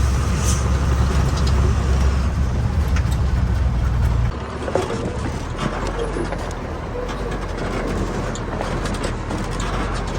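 Truck engine running while driving, a low drone with road noise and scattered clicks and rattles. About four seconds in, the engine's low drone drops sharply in level and carries on quieter.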